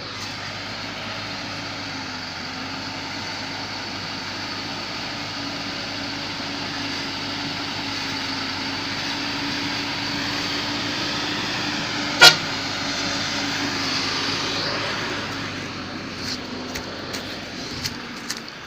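Motor vehicle driving, with a steady engine drone and road noise that swell a little and then ease off. A single sharp click comes about twelve seconds in.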